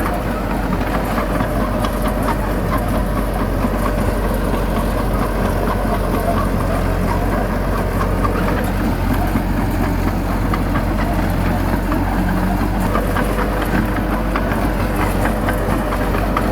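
Heavy diesel engine of earthmoving machinery running steadily, with a low hum and a light clatter throughout.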